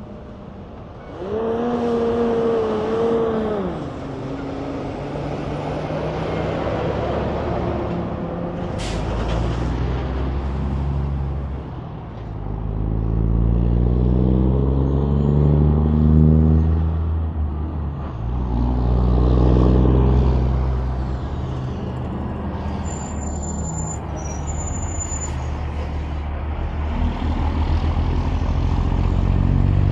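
Big-rig trucks' diesel engines and tyres on a highway, with several trucks passing one after another, each swelling up and fading. Near the start a held tone lasts about two and a half seconds, then drops away.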